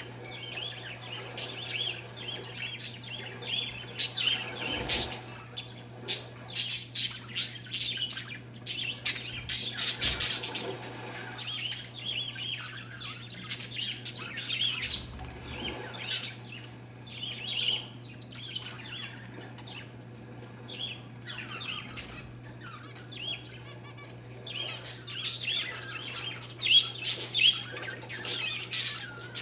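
Pet parakeets and zebra finches chirping and squawking continuously in quick, overlapping calls, with a run of sharp clicks partway through, over a steady low hum.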